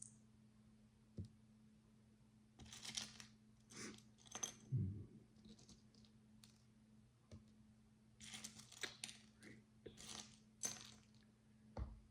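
Micro bricks (tiny plastic building blocks) being handled and pressed together: two spells of small plastic clicks and rattles, a few seconds in and again about eight seconds in, with a couple of soft low knocks, over a faint steady hum.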